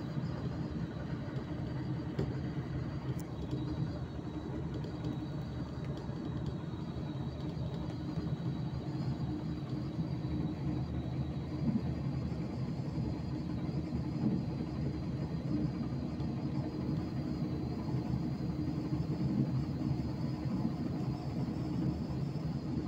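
Passenger train running at speed, heard from inside the carriage: a steady rumble with a faint high whine.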